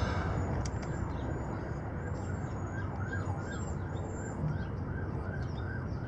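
A bird calling in a quick series of short rising-and-falling notes, about three a second, from a couple of seconds in, over a steady low rumble of background noise. Thinner, higher chirps sound over the first few seconds.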